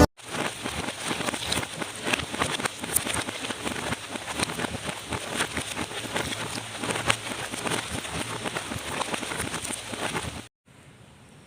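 Rain falling steadily: a dense patter of drops with many small ticks on a hard surface. It cuts off suddenly near the end.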